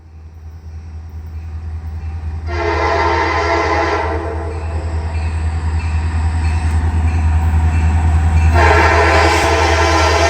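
Diesel locomotive horn on a CSX freight train sounding twice as the train approaches: a blast of about a second and a half about two and a half seconds in, then a longer blast starting near the end. Under it a low locomotive rumble grows steadily louder.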